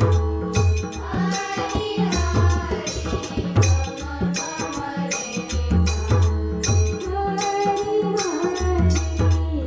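Marathi bhajan performed by a women's group: a woman's singing voice over deep hand-drum strokes and evenly repeated small-cymbal strokes keeping the beat, a little under two a second.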